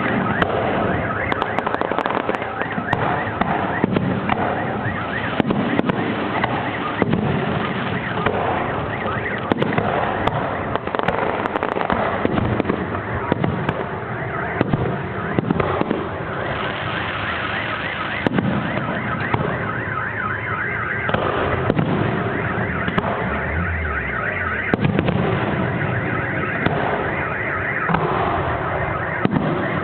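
Fireworks display going off without a break: many sharp bangs over continuous crackling.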